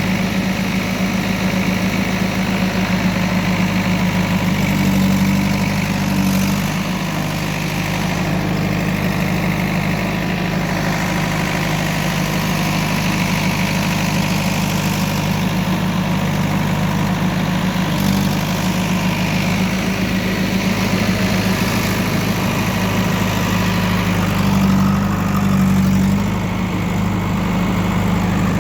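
A heavy diesel engine running steadily at idle, swelling slightly in level twice, once about five seconds in and again near the end.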